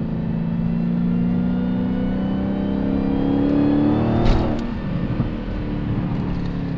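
Dodge Challenger SRT Hellcat's supercharged 6.2-litre V8, still on its factory intake, heard from inside the cabin under acceleration: the engine note climbs slowly with a faint high supercharger whine rising along with it. About four seconds in there is a brief sharp click and the revs drop, then the engine runs on at a steadier pitch.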